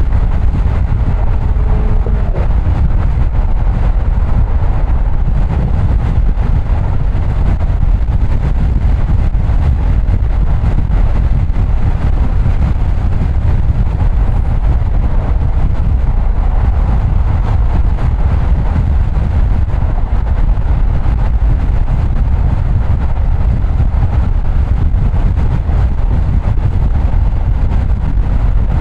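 Steady road noise of a car driving: an even rumble of tyres and engine.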